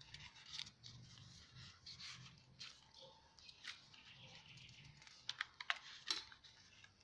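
Faint rustling and light clicking of paper and card as a handmade journal's pages and inserts are handled, with a few sharper clicks near the end.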